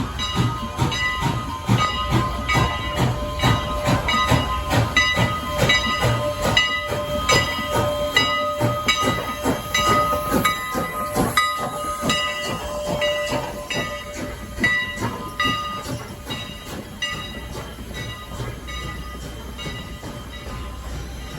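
Steam-hauled train running on the rails with steam hissing: rapid rhythmic clanking and metallic ringing, about three knocks a second, thinning out and getting quieter after about twelve seconds.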